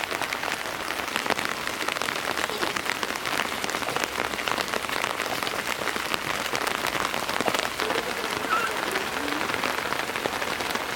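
Steady rain falling, with many separate drops heard striking.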